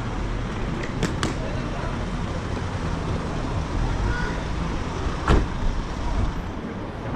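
Steady road-traffic noise with a low rumble, broken by two sharp clicks about a second in and a louder knock about five seconds in.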